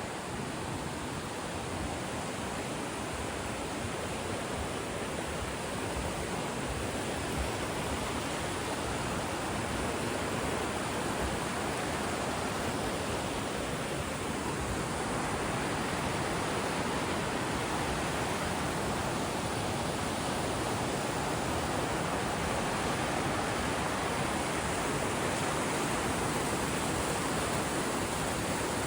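Steady rush of a river's rapids, with no break or change in character, slowly growing louder.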